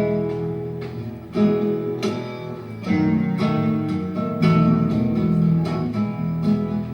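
Acoustic guitar playing an instrumental passage of the song, with plucked ringing notes and strummed chords.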